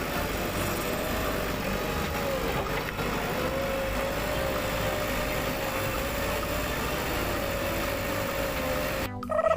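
A small motor running steadily with a slightly wavering whine over a rumbly hiss. It cuts off abruptly near the end, and a louder held tone with overtones takes over.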